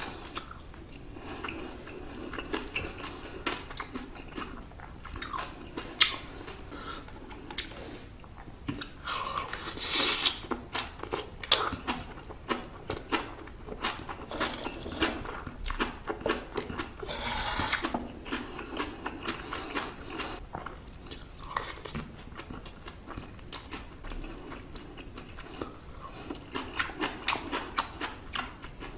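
Close-miked chewing and crunching of crispy scorched rice (nurungji) from iron-plate stir-fried octopus fried rice: irregular crackly bites and munching throughout.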